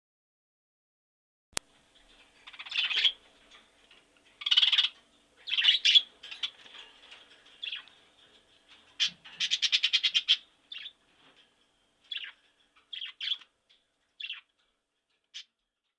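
A bird calling: a series of short, high chirps with pauses between them, and one fast trill about two-thirds of the way through. A single sharp click comes shortly before the first call.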